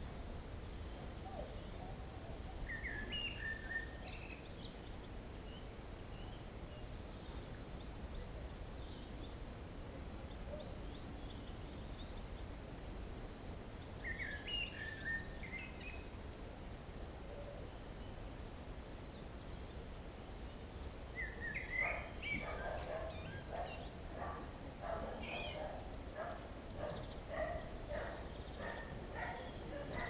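Birds at a feeder calling in short chirping phrases, three times, over a steady low outdoor rumble. From about two-thirds of the way in, a run of quick taps sounds about twice a second.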